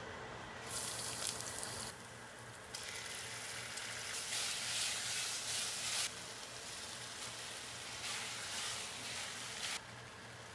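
Chicken pieces and diced vegetables sizzling in a hot enamelled pot as a spatula stirs them. The frying hiss jumps abruptly louder and softer several times.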